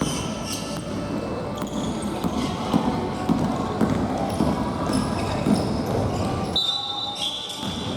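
Futsal game on a gymnasium floor: the ball being kicked and bouncing, and players moving, amid players' calls. A held high tone sounds for about a second near the end.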